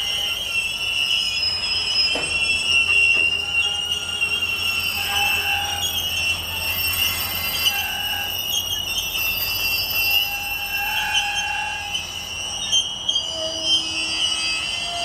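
Freight cars of a slow-moving train rolling past, their steel wheels squealing in several steady high tones over a low rumble.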